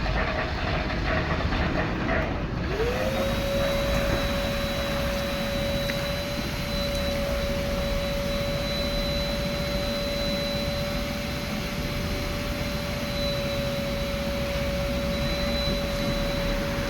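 Car-wash vacuum cleaner motor switching on about three seconds in, spinning up quickly to a steady high whine with a rushing hiss of air, over a constant background of machine noise.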